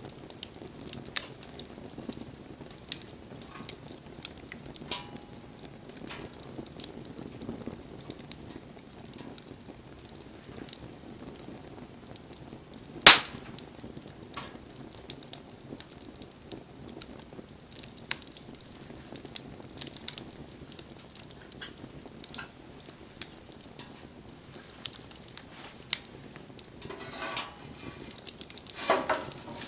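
Wood campfire crackling, with scattered sharp pops over a low steady hiss and one much louder snap about thirteen seconds in. A couple of short, noisier bursts of crackle come near the end.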